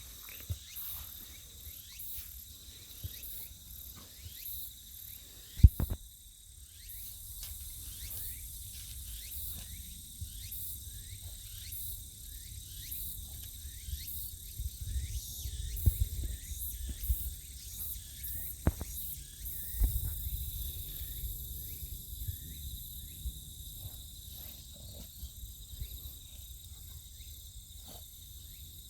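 Insects trilling in a steady, high, even drone, with many short falling chirps running through it and a sharp knock about six seconds in.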